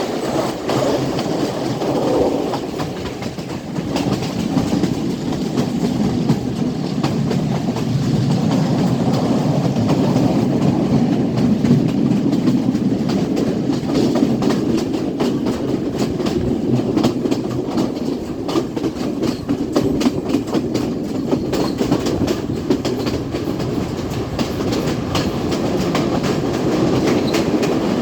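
Sri Lanka Railways Class S12 diesel multiple unit running along the track: a steady rumble with a continuous clickety-clack of wheels crossing rail joints.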